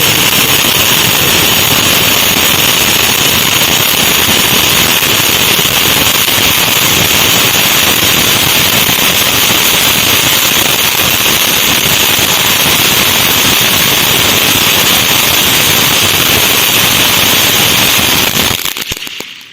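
Sky King 'King Crackling' fountain firework burning: a loud, dense, unbroken crackle that sounds like a 5000-wala string of firecrackers going off, over the fountain's spray. It dies away about a second before the end.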